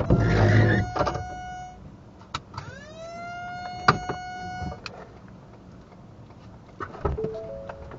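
Car electric window motor running twice: first a steady whine as the outside rain noise cuts off, then a whine that quickly rises in pitch and holds for about two seconds before stopping with a click. Several clicks and a few short beeps follow.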